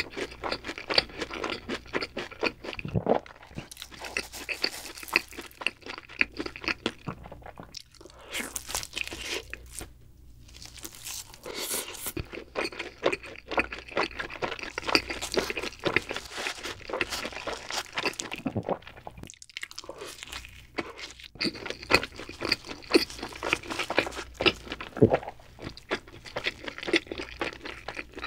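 Close-miked ASMR chewing of cheese pizza: a continuous run of crunchy, wet chews with a few short pauses.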